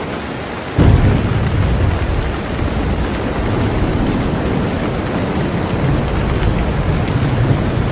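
Heavy rain falling on a boat, a steady dense hiss. About a second in, a deep low rumble sets in abruptly and rolls on underneath the rain.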